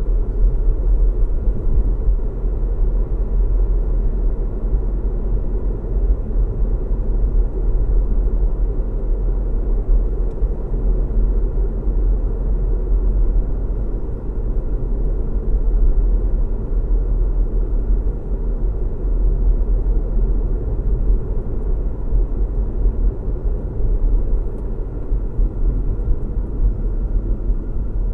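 A car driving at a steady speed: a constant low rumble of road and engine noise.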